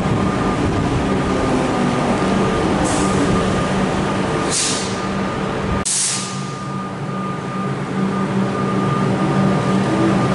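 Comeng electric suburban train at the platform, its steady machinery hum running, with three short hisses of air about three, four and a half and six seconds in.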